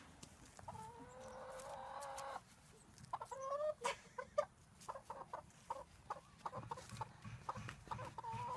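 Chicken clucking: one drawn-out call lasting about two seconds near the start, then a few short calls and a run of quick clucks.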